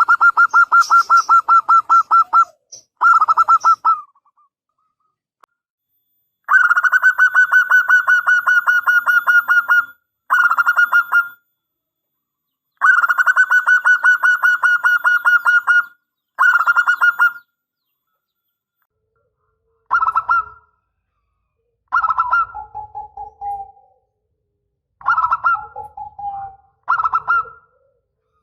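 Zebra dove (perkutut) cooing in long phrases of rapid, pulsed notes repeated several times. In the second half come shorter phrases that drop to a lower held note at the end.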